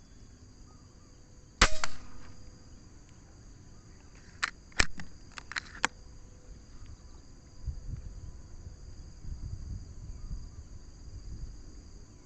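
A single air rifle shot about one and a half seconds in, a sharp crack with a short ringing tail, followed a few seconds later by a quick run of five or six sharp clicks. Steady high insect buzzing underneath.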